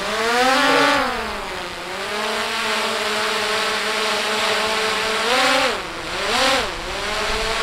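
Camera drone's propellers whining. The pitch climbs in the first second, holds steady, then dips and rises twice near the end as the drone moves, over a steady hiss.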